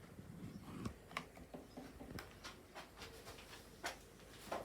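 A few faint, scattered clicks and light knocks from handling and moving the painted canvas, the strongest one near the end.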